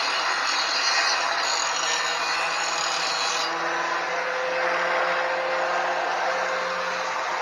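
Angle grinder with a grinding disc grinding the cut ends on a steel motorcycle frame, cleaning up fresh cuts. The harsh grinding noise eases about three and a half seconds in while the grinder keeps spinning.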